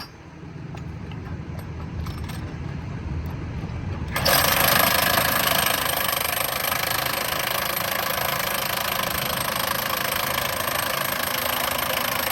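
Powered impact wrench driving track bolts on a railroad diamond crossing: a low engine rumble, then about four seconds in a loud, rapid hammering starts suddenly and runs for about eight seconds before stopping abruptly.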